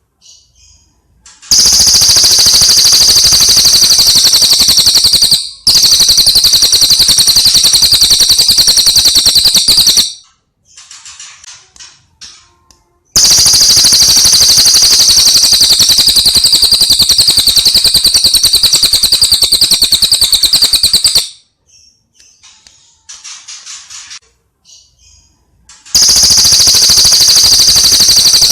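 Recorded songbird song for tutoring caged birds: long, very rapid high-pitched trills, each several seconds and four bouts in all, played so loud that they distort. Shorter, much quieter chirping phrases come between the trills.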